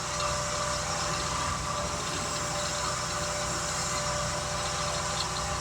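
An engine idling steadily, an even drone with a constant hum.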